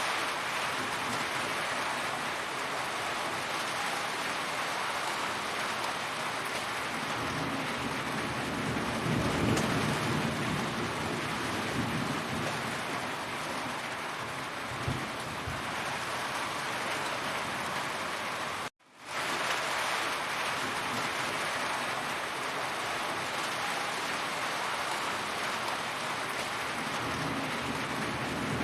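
Heavy rain falling steadily, a dense hiss of drops, with low thunder rumbling about nine seconds in and again around fifteen seconds. The sound cuts out for an instant about two-thirds of the way through and fades back in.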